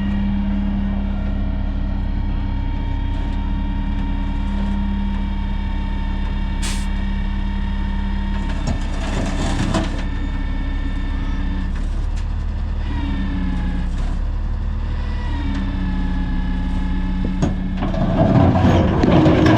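Heavy truck's engine running steadily, its pitch rising and falling a few times as it works. Near the end a louder rough, clattering noise sets in.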